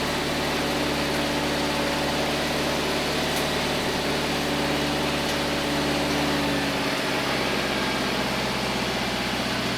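Tractor engine idling steadily, its pitch shifting slightly about seven seconds in.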